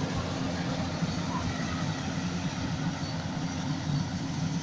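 Yanmar AW70 combine harvester's diesel engine running at a steady speed, a constant low drone.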